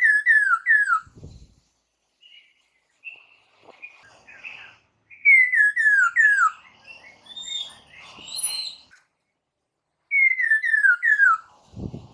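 Chinese hwamei (poksay mandarin) singing: loud whistled phrases of three to five quick down-slurred notes, heard three times, with softer higher chirps and warbles between them.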